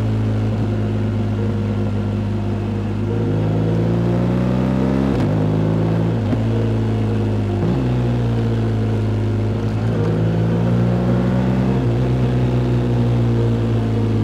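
Motorcycle engine pulling hard through the gears: the pitch climbs and drops sharply at each upshift, three times in quick succession about halfway through, then winds down as the bike slows.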